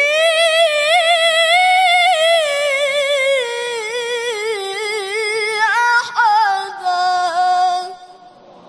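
Male Qur'an reciter (qari) chanting in melodic tajwid style: one long, ornamented, sustained phrase with wavering pitch ending the verse, stopping about 8 seconds in, with a reverberant tail.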